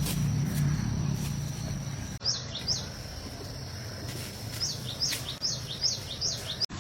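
A bird giving short, quickly falling chirps, twice about two seconds in and then about six in a quick run near the end, over a steady high insect trill. The background changes abruptly about two seconds in.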